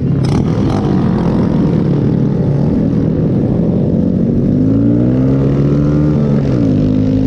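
Motorcycle engine pulling away, its pitch rising as it accelerates, then dropping at a gear change a little before the end and running steady. Two short sharp clicks near the start.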